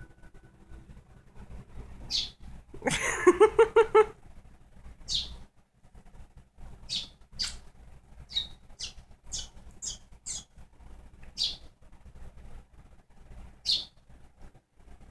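Baby bird cheeping: about a dozen short, high single chirps spaced irregularly, roughly a second apart. About three seconds in, a louder burst of a person's voice sounds for about a second.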